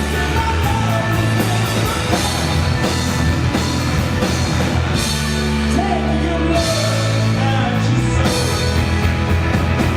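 Live rock band playing loud, with sustained bass notes, drums and cymbals, and a voice singing over them.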